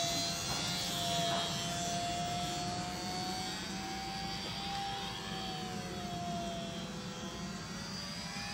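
Electric motor and propeller of an Extra 330L 3D aerobatic RC airplane in flight: a steady buzzing whine whose pitch slowly rises and falls.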